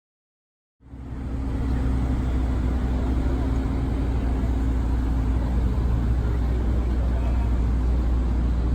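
Silence for under a second, then the steady low hum of a motor vehicle's engine running, with road noise.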